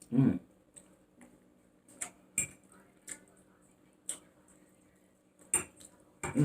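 Cutlery clicking against a dish in light, scattered taps about once a second, as food is scooped up to eat. There is a brief voice sound right at the start.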